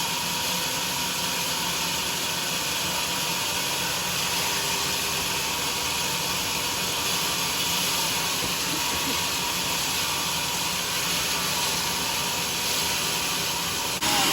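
A sawmill saw running steadily through a teak log, an even hissing noise.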